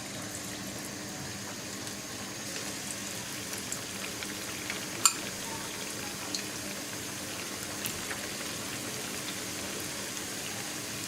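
Batter-coated chicken pieces deep-frying in hot oil: a steady sizzle with a few sharp pops or clicks, the loudest about five seconds in.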